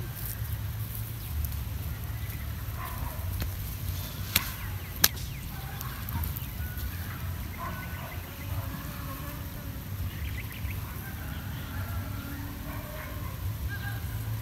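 Outdoor ambience: a steady low rumble with scattered short bird calls, and two sharp clicks about four and five seconds in.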